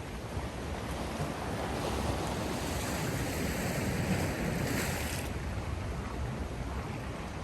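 Sea waves washing ashore, a steady surf with slow swells and one stronger wave breaking about five seconds in, mixed with wind.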